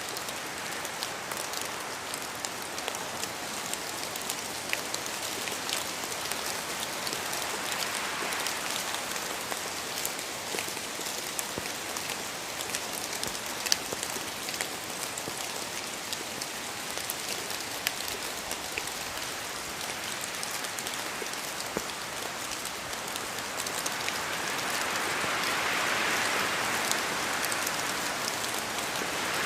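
Steady rain falling, a dense even hiss with many individual drops ticking on a surface; the downpour swells a little heavier near the end.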